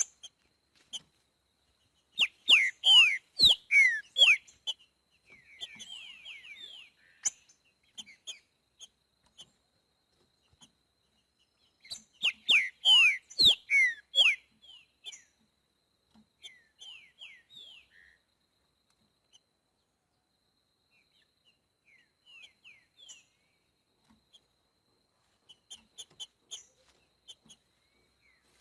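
Green-winged saltator (trinca-ferro boiadeiro) singing: two loud phrases of quick, falling whistled notes about ten seconds apart, with softer scattered notes between them.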